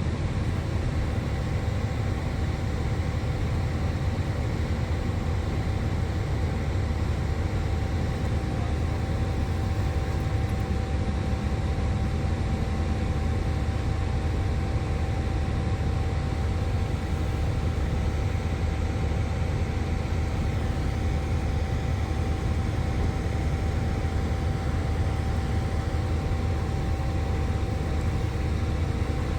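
Steady low rumble of a running vehicle engine, with a constant faint whine over it and no change in pitch or level.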